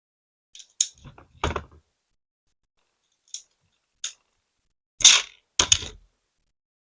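Small hard-plastic LEGO pieces clicking and rattling as they are handled, in about six short separate bursts, the loudest pair about five seconds in.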